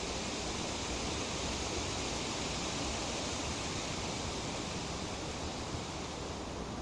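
Wind rustling through tree leaves: a steady, even hiss that swells a little in the middle and eases slightly near the end.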